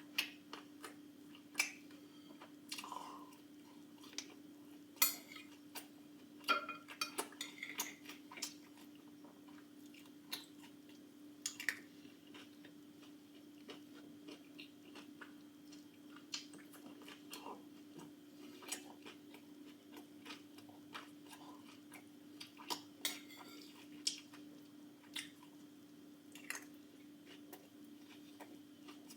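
Someone eating salad: scattered, irregular clicks of a fork against a dish, with chewing, over a faint steady hum.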